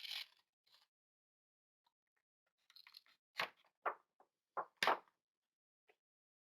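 Paper being handled: a brief rustle at the start, then a quick run of short crinkles and taps a few seconds in.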